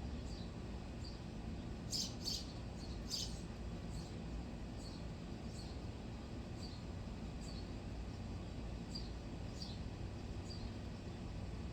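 A small bird chirping outdoors: short high chirps repeated about once a second, with a quicker, louder flurry of chirps about two to three seconds in, over a steady low background rumble.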